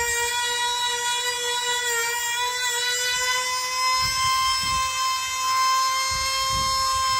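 2.5 cc F2D combat model two-stroke engine running flat out, a steady high-pitched whine, its pitch creeping slightly higher over the last few seconds. A few low rumbles come and go in the second half.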